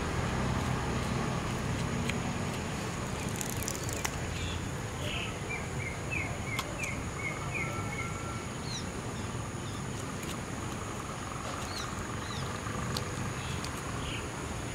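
Outdoor ambience: a steady low rumble, with a small bird giving a quick series of short chirps from about four and a half to seven seconds in and a few more calls later.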